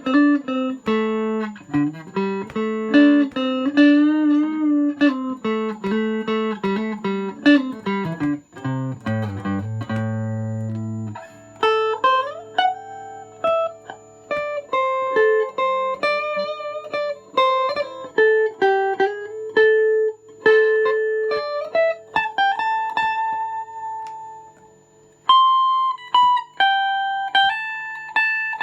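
Electric guitar with a weighted tremolo sustain block, played solo in single-note melodic phrases with string bends and vibrato. About ten seconds in there is a low held note, and later a long note rings on and fades before the next phrase starts.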